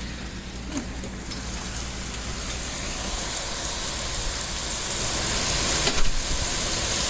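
Heavy storm rain pouring down, a steady hiss that grows gradually louder, with wind rumbling low on the microphone.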